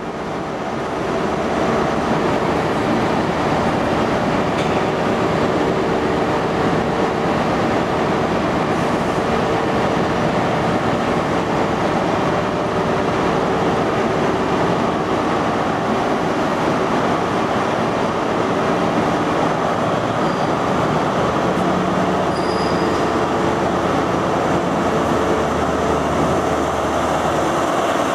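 A train running on the track, giving a steady, dense noise of wheels on rail with a faint steady squeal-like tone underneath.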